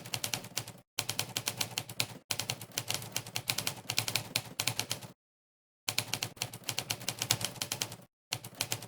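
Monkeytype's typewriter keypress sound effect clicking once per keystroke at a fast typing pace, about ten clicks a second. The clicks come in runs broken by short pauses, with a longer silent gap a little past the middle.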